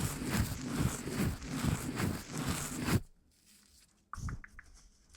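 Close-miked ASMR trigger sounds: dense crackly rustling and quick tapping that cuts off suddenly about three seconds in, then a single soft thump a second later.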